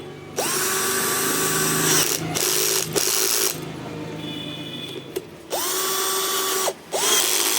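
Electric drill motor test-run after repair: it is triggered in short bursts, whining up quickly to full speed each time and cutting out sharply. It runs for about three seconds, idles more quietly, then is pulsed twice more near the end.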